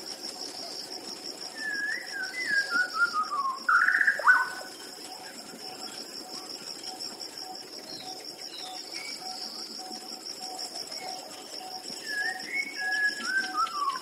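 Songbird singing a phrase of chirps stepping down in pitch that ends in a loud upward sweep, heard near the start and again near the end, over a steady high-pitched pulsing trill.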